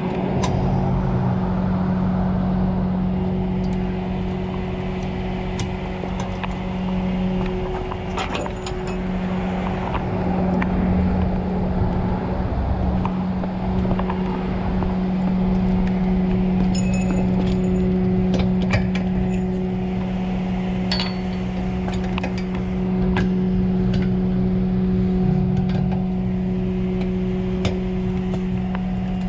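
Vehicle engine idling steadily, with scattered light metallic clinks and clicks.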